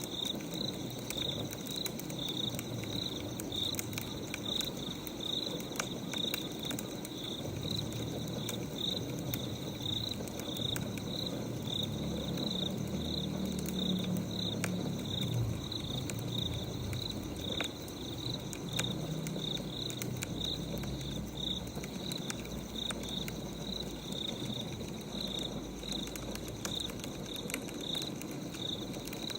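Cricket chirping in a steady, even rhythm over a crackling wood fire, with sharp little pops scattered throughout and a low rumble around the middle.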